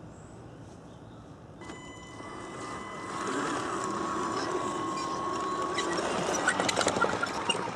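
A small electric motor starts up about a second and a half in and runs with a steady whine, with a rattle of clicks near the end.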